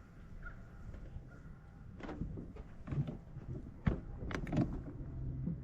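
A few sharp knocks and clicks of handling over a low rumble, with a cluster of them about four seconds in.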